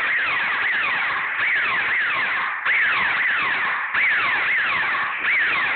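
Laser tag guns firing: a rapid, overlapping run of electronic zaps, each sliding down in pitch, about three a second.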